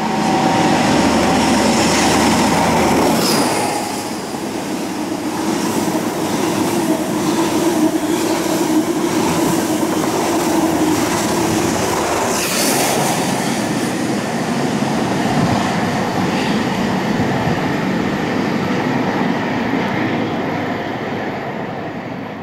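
Class 43 HST power car with Paxman VP185 engine under power, loud, passing at speed. The leading power car is loudest for the first three seconds or so, then the coaches' wheels clatter past over the rail joints. The sound fades near the end as the train goes away.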